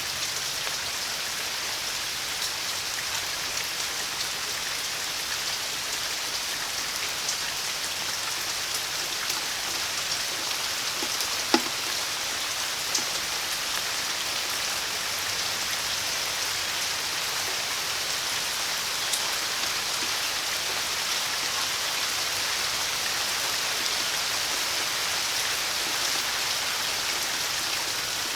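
Steady rain falling: an even hiss dotted with the small ticks of individual drops, with one sharp, louder tick a little past the middle.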